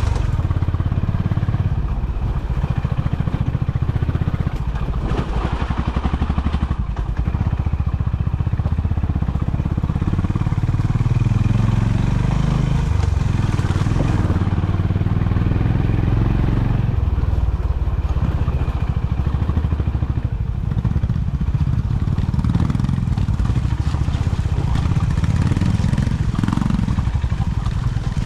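Honda CB350 motorcycle's 348 cc air-cooled single-cylinder engine running with a steady, pulsing low exhaust note that shifts a little now and then.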